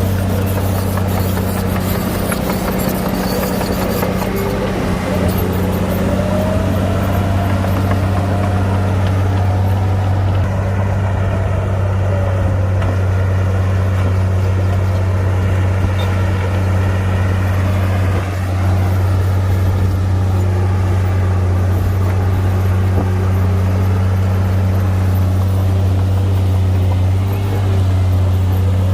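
A bulldozer's heavy diesel engine runs steadily at working load, with a low, even drone. A fainter whine rises and falls slowly over it several times.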